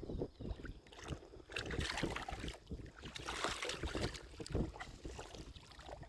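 Shallow seawater sloshing and splashing, with wind buffeting the microphone in short low thumps.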